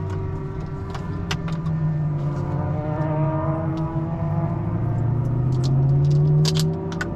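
Car engine heard from inside the cabin, its pitch sagging a little and then climbing steadily as the car accelerates, loudest just before it drops back sharply near the end. Light clicks and rattles sound over it.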